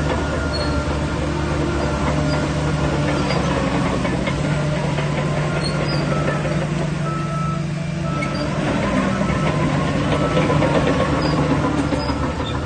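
Diesel engine of a Shantui DH17 crawler bulldozer running steadily under work, with a thin whine that bends up and down in the second half.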